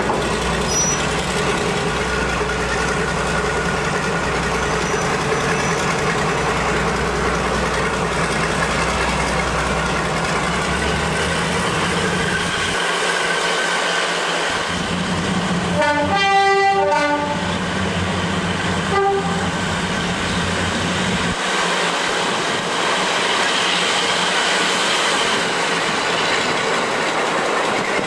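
Diesel-hauled train running slowly, heard from on board: a steady rumble of engine and wheels. About sixteen seconds in the locomotive sounds its two-tone horn, and gives a short blast about three seconds later.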